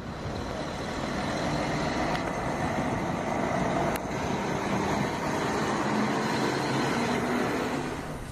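A motor vehicle's engine running close by with a steady, dense noise. It swells over the first second and eases off near the end.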